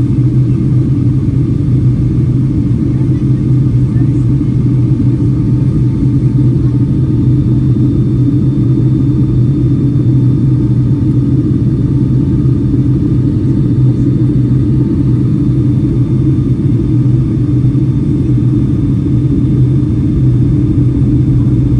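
Steady low drone of jet engine and airflow noise heard inside the cabin of a Boeing 757-300 in flight, holding level and unchanging.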